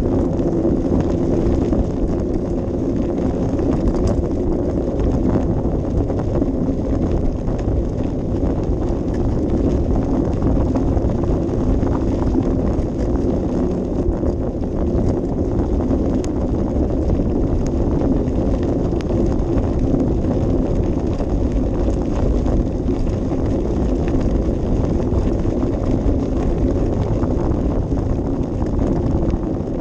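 Steady low rumble of wind on a helmet- or bike-mounted action camera's microphone, mixed with continuous fine rattling and clatter from a bicycle in motion.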